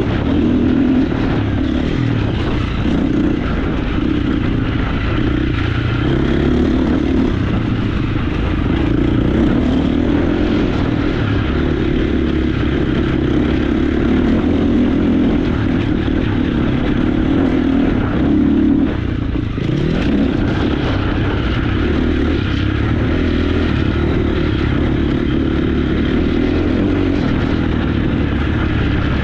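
Motocross bike engine running hard on a dirt track, the pitch rising and falling with the throttle. About two-thirds of the way through, the throttle shuts briefly and the engine revs up again.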